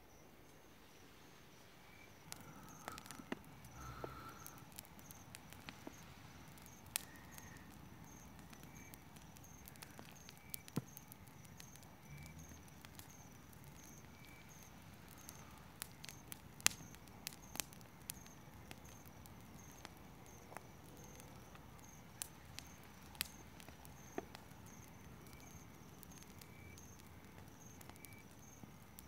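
Campfire of dry garden weeds crackling, with irregular sharp snaps and pops, one especially loud about two-thirds of the way in. Crickets chirp steadily and faintly behind it.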